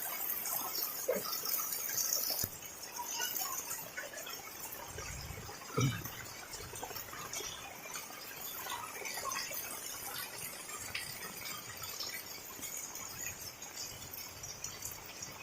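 Rain falling steadily, a hiss that is louder for the first couple of seconds and then settles. A little before six seconds in comes one short sound falling in pitch.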